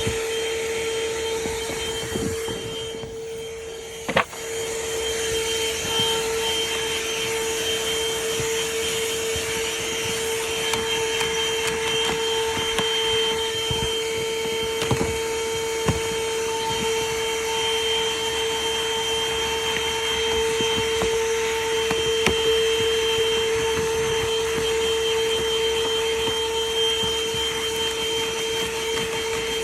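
A handheld car vacuum running steadily with a high motor whine over its rushing suction. Its nozzle knocks against the car interior a few times, and just before a sharp click about four seconds in the suction noise briefly drops.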